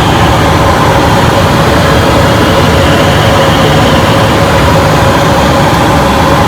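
Airliner's jet engines and cockpit noise heard inside the flight deck: a loud, steady rumble with a few steady whining tones over it.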